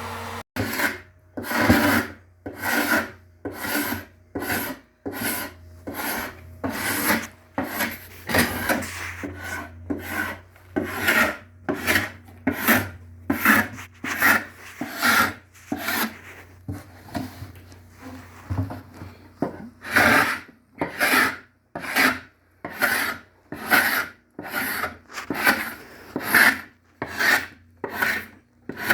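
Hand scraping of a wooden drawer front to take off the last of the old finish: steady back-and-forth strokes, about one and a half a second, with a short pause partway through.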